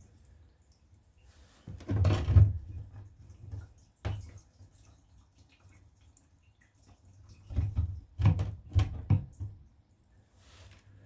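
Gasoline draining from a disconnected fuel line into a container. Two spells of loud clattering handling noise, about two seconds in and about eight seconds in, and a single click near four seconds.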